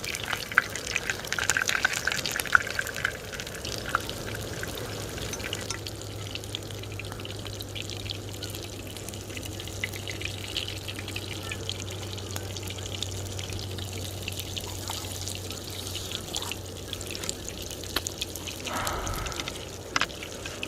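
Rain dripping and pattering in irregular ticks, busier at the start, with a low steady hum through the middle.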